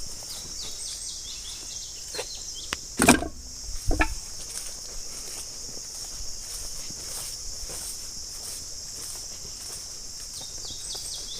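Insects, crickets among them, chirring steadily at a high pitch, with two heavy thumps about three and four seconds in.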